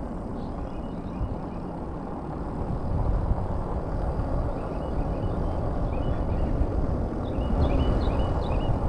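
Steady low wind rumble and road noise from riding an e-bike, getting louder about three seconds in. Short high chirps come in two groups over it, in the second half.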